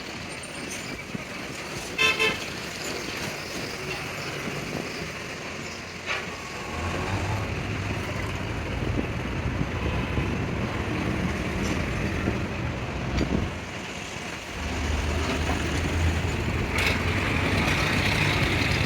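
A short horn toot about two seconds in, then a low steady engine or motor hum that starts about seven seconds in, drops away briefly and returns louder near fifteen seconds in.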